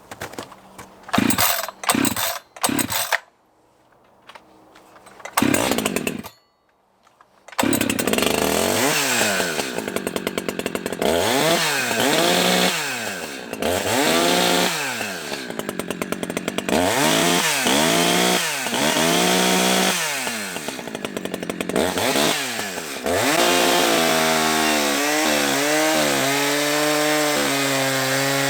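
Echo CS-620 two-stroke chainsaw, its muffler just modified, starting after a few knocks and then being revved up and down again and again. Near the end it settles into a steadier, lower note.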